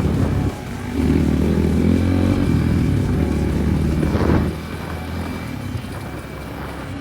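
Enduro motorcycle engine running, with a short dip about half a second in, then dropping to a lower level after about four and a half seconds.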